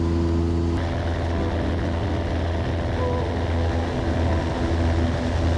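Cessna 172S Skyhawk's four-cylinder Lycoming engine and propeller in flight, a steady, even drone.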